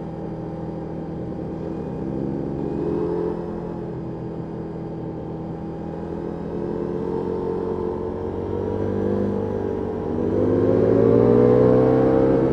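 Ducati Multistrada V4S V4 engine through an Akrapovic exhaust under way, revs rising and falling as the bike is ridden, with a strong climb in revs about ten seconds in that is the loudest part.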